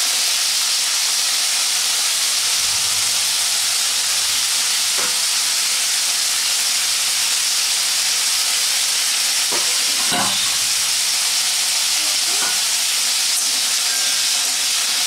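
Diced potatoes sizzling steadily as they fry in mustard oil in a kadai, with a spatula scraping and stirring against the pan a few times, most strongly about ten seconds in.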